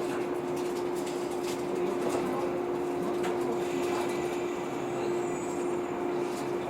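Inside a JR 115-series electric train just after the doors close at a station: a steady electrical hum with a faint, higher tone above it, and a few scattered clicks.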